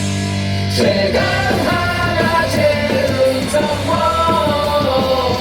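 Rock-style baseball cheer song over stadium loudspeakers: a held chord, then singing joins about a second in.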